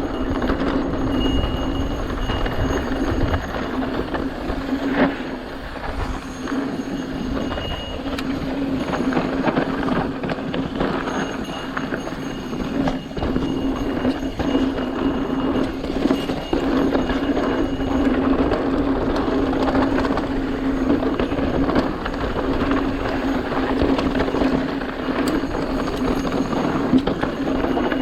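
Mountain bike rolling fast over a dirt trail: continuous tyre and wind noise with a steady hum, and small knocks and rattles from the bike over bumps.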